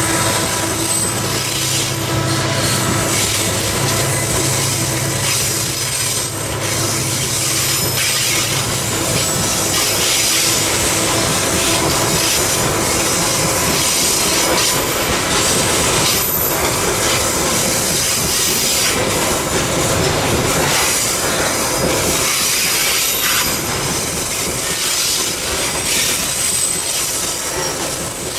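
Loaded coal hopper wagons of a long freight train rolling past on curving track, steel wheels squealing thinly and clacking over the rail joints. A low diesel locomotive drone fades out about nine seconds in as the CC 205 locomotives pull away.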